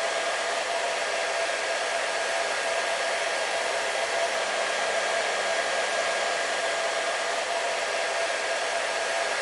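Hair dryer running continuously: an even rush of air with a steady motor whine, holding the same pitch and level throughout.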